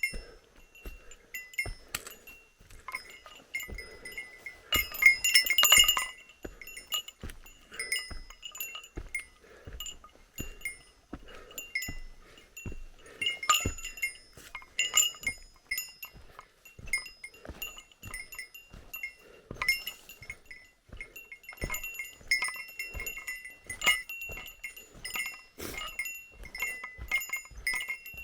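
Small metal bell jingling over and over at the same few ringing pitches, with soft knocks of footfalls, busiest about five seconds in.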